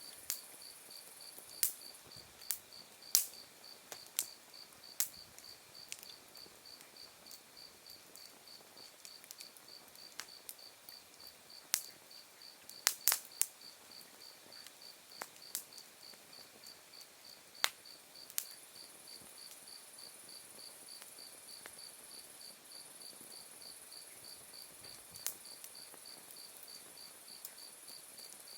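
Autumn crickets and other insects singing in a steady, evenly pulsed high chirping, with a second high insect trill growing stronger after about twenty seconds. Over it, a campfire of embers and logs gives scattered sharp pops and crackles, the loudest sounds, several in quick clusters.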